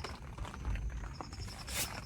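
Rain drops tapping irregularly on tent fabric over a low steady rumble of wind. A short, high, rapidly pulsed chirp repeats in the background, and a brief hiss comes near the end.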